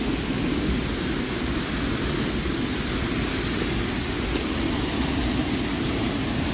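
Waterfall in heavy flow: a steady, deep rush of falling water.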